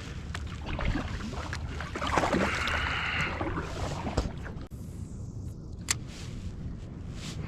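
Scattered knocks and clicks and water noise around a fishing kayak, over a steady low rumble. A brief rushing hiss comes about two seconds in, and a sharp click near the end.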